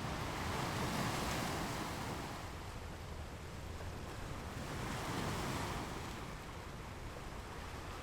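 Ocean waves breaking and washing on the shore, two swells of surf rising and fading, the first about a second in and the second about five seconds in.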